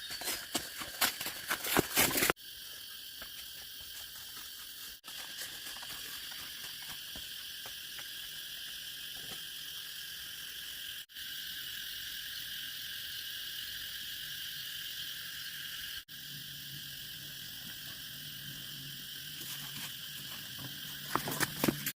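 Steady high chirring of insects, with a quick run of sharp knocks and taps in the first two seconds and another just before the end.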